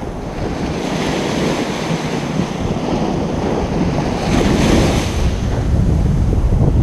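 Ocean surf washing onto a beach in a steady rush of breaking waves, swelling louder about four seconds in. Wind rumbles on the microphone underneath.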